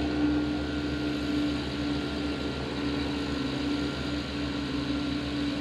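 Aviation fuel pump running with a steady hum while fuel is pumped into the airplane's tank.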